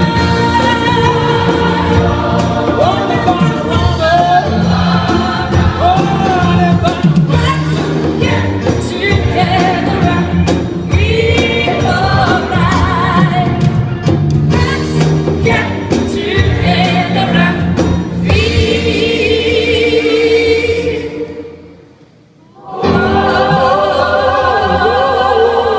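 A choir singing gospel-style in several voices. About three-quarters of the way through the sound fades away for a moment, then the choir comes back in.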